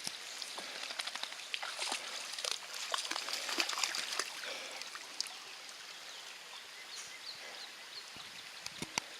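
Shallow water trickling and splashing, with many small clicks and splashes, busier during the first half.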